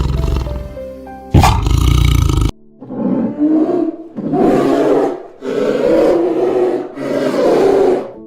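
Music with a sharp hit, cut off abruptly after about two and a half seconds, then a big cat calling in a series of about five rough, rasping roars, each about a second long.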